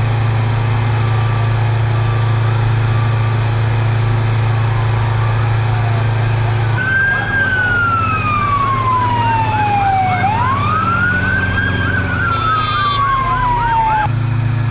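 Emergency vehicle sirens over a loud, steady low drone: from about halfway in, a slow wail sweeps down and back up, with a faster warbling siren pattern over it; the sound changes abruptly near the start of the wail and near the end.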